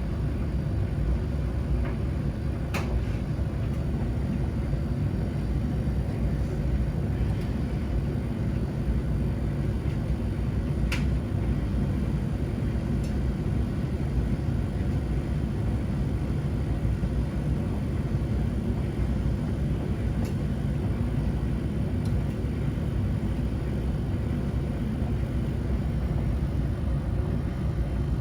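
Household washing machines and tumble dryers running together: a steady low rumble, with a couple of light clicks.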